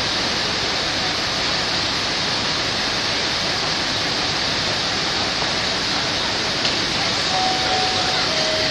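Steady rushing hiss of a passenger train pulling out behind an electric locomotive, with two short steady tones one after the other near the end.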